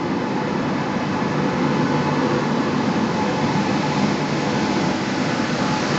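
Passenger train hauled by an electric locomotive pulling in close alongside a station platform: the locomotive and then the coaches pass by. It is a steady running noise that grows slightly louder.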